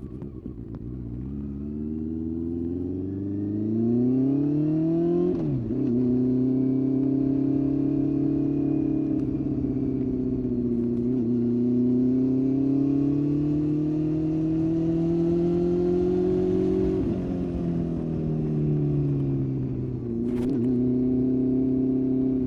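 Honda CB400 Super Four's inline-four engine running through an aftermarket Blueflame exhaust. The note climbs for a few seconds, drops sharply about five seconds in, then holds a steady, slowly rising pitch until it drops again about seventeen seconds in.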